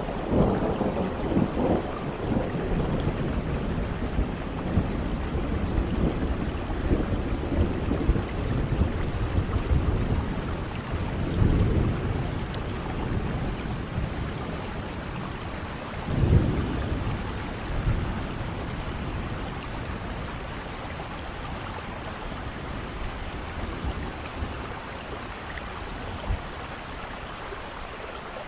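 Steady rain falling, with rolling thunder rumbling low several times: strongest near the start and again around the middle, and the storm easing off toward the end.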